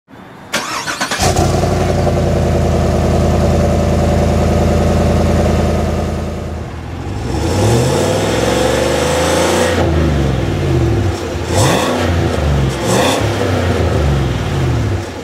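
2015 Cadillac Escalade's 6.2-litre V8 starting about a second in and idling steadily. From about seven seconds in it is revved up and down several times.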